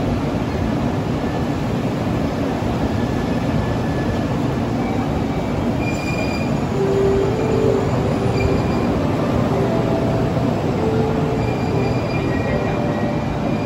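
JR Kyushu 787 series electric train rolling slowly into a station platform, wheels rumbling on the rails, with thin high tones that come and go from about six seconds in.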